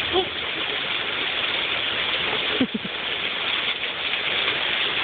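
Steady, heavy rain pouring down, an even hiss of falling water.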